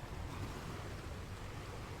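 Sea surf washing on a rocky beach: a steady rushing wash of water with a low rumble beneath.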